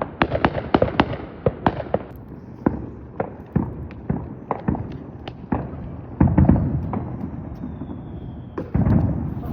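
Consumer fireworks going off: a run of sharp cracks and pops, several a second at first and then more spread out, with two heavier bangs about six and nine seconds in.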